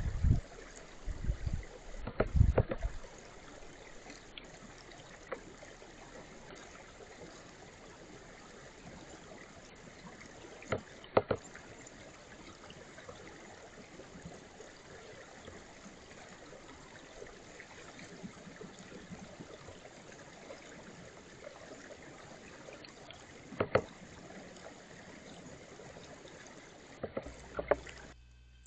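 A brook running steadily, with a few low thumps about two seconds in and occasional single sharp taps.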